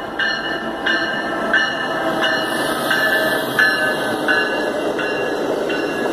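Amtrak train pulling into the station behind an ACS-64 electric locomotive, its bell ringing evenly about every two-thirds of a second over the rumble of the passing cars.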